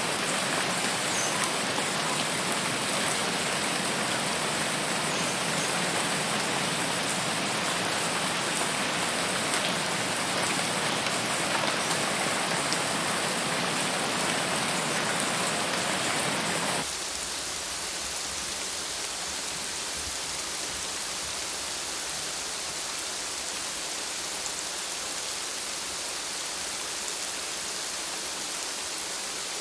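Steady rain falling, a dense even patter. About two-thirds of the way through it switches abruptly to a quieter, deeper-sounding rain.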